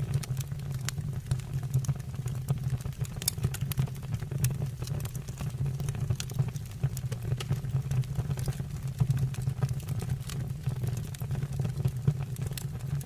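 Wood fire burning in a stove or fireplace: a steady low rumble of flames with frequent sharp crackles and pops.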